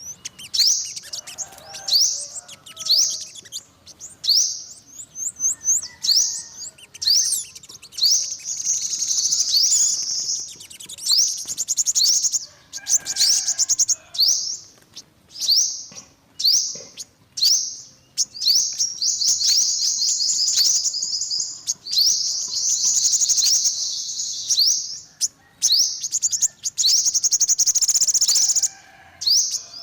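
Yellow-bellied sunbird calling: a series of high, sharp chirps broken by long, fast trills.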